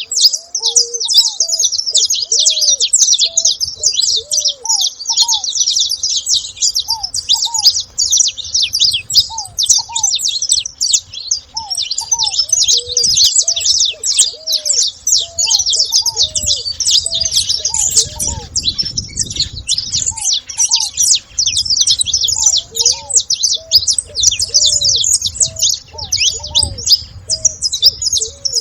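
A flock of saffron finches chirping and chattering all at once, many overlapping high calls with no break. Underneath runs a steady series of short, lower rising-and-falling notes.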